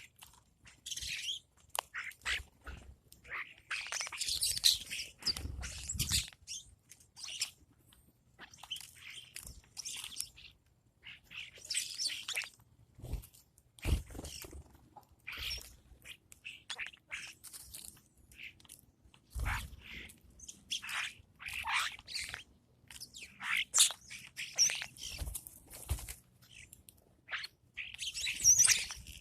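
Birds chirping and calling in many short, irregular bursts, with a few brief low knocks.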